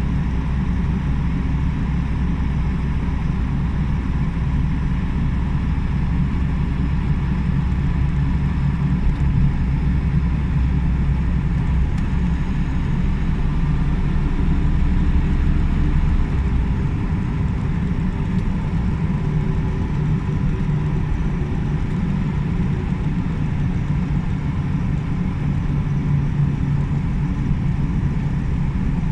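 Steady low rumble of a motor vehicle running, continuous throughout, with its deepest part falling away about halfway through.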